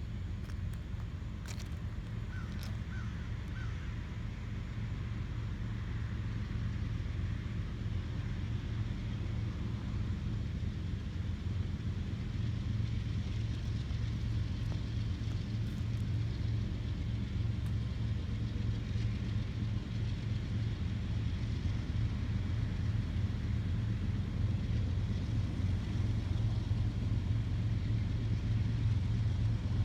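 Diesel freight locomotives approaching slowly: a low, steady engine drone that grows gradually louder.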